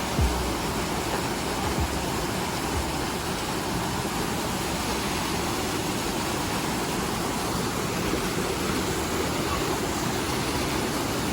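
High Shoals Falls waterfall rushing: a steady, even roar of falling water, with a low bump right at the start.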